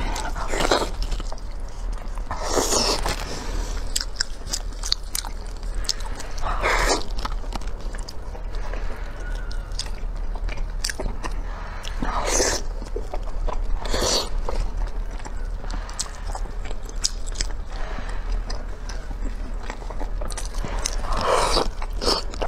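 Close-miked mouth sounds of a person eating braised pork knuckle: wet chewing and lip-smacking with many small clicks, and half a dozen louder wet bites or slurps spread through the stretch.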